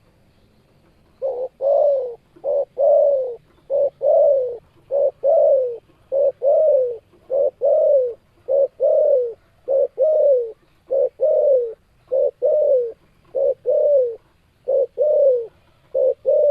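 Spotted dove (tekukur) cooing steadily. About a second in, a long series of low coos begins, repeated in pairs of a short note and a longer note that falls in pitch at its end, roughly one pair a second.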